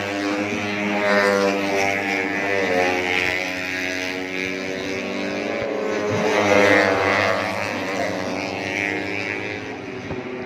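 Several 150cc four-stroke underbone racing motorcycles at high revs, their engine notes rising and falling as they pass, over a steady low hum.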